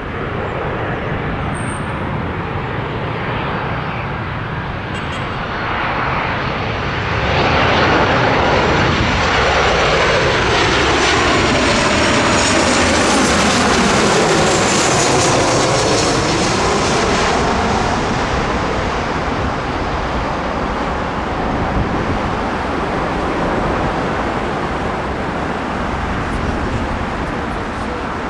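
Airliner passing low overhead near the runway end: engine noise swells to its loudest about eight seconds in, holds with a sweeping, shifting tone for several seconds, then slowly fades away.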